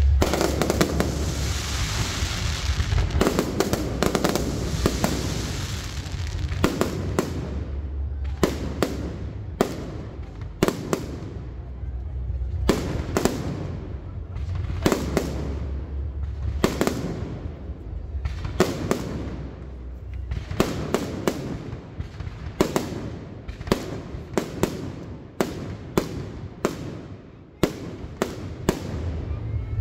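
Fireworks display: aerial shells bursting overhead. A dense crackling wash for the first few seconds gives way to a long run of sharp bangs at irregular intervals, sometimes two or three in quick succession.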